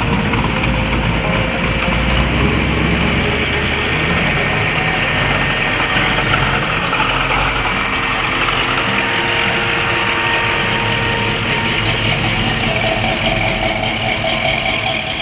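A motor vehicle's engine running steadily, with a low rumble.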